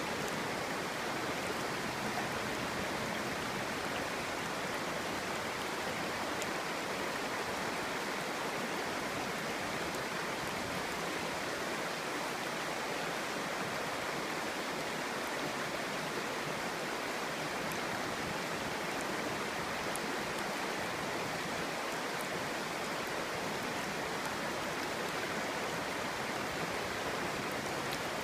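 Clear stream burbling over stones: a steady, even rush of running water.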